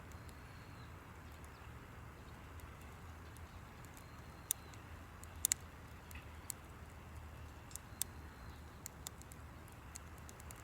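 Campfire burning wood and crackling: sharp, irregular pops, with a louder one about four and a half seconds in and a quick double pop about five and a half seconds in, over a faint low steady hum.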